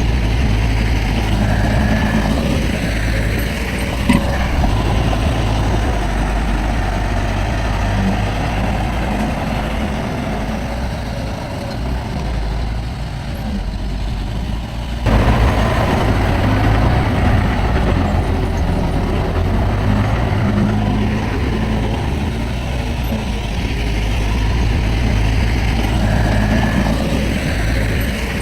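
Heavy diesel earthmoving machinery running steadily. There is a single sharp knock about four seconds in, and the engine sound steps up suddenly in level about halfway through.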